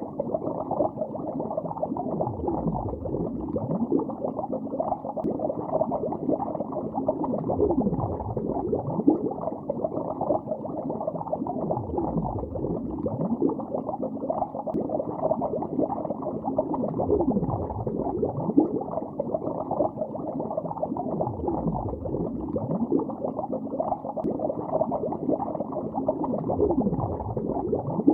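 Continuous dense bubbling and gurgling of water heard underwater, muffled with nothing high in it, with a low downward-sliding gurgle every few seconds.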